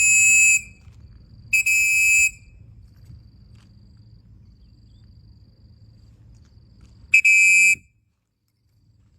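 Three short blasts of a shrill, steady-pitched whistle, each lasting under a second: two close together at the start and one about seven seconds in.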